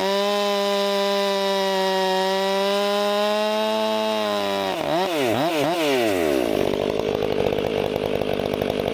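Two-stroke chainsaw cutting oak: a steady high engine note at full throttle for the first few seconds, a few quick throttle blips around five seconds in, then a rougher, lower running sound.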